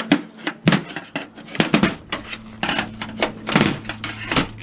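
Thin aluminum and plastic scrap parts clattering and clanking as they are handled and pried apart, about a dozen irregular sharp knocks, over a steady low hum.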